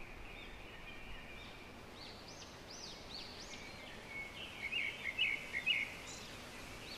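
Birds calling among trees: a run of quick high notes that rise and fall, then a louder burst of chattering calls near the end, over faint steady outdoor background noise.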